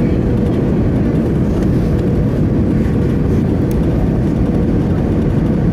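Steady low rumble inside the cabin of an Airbus A319 airliner: jet engine and airflow noise, with a faint steady hum running through it.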